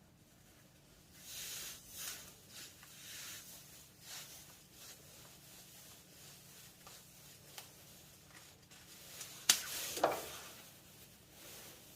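PTFE (Teflon) thread tape being wound onto a brass short nipple's threads: soft, repeated rubbing swishes, with one sharp click about nine and a half seconds in.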